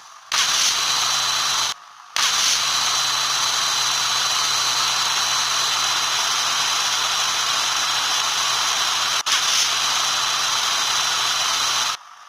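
A small electric motor appliance running with a loud, steady hiss, a low hum and a high whine. It stops briefly about two seconds in, starts again, and cuts off just before the end.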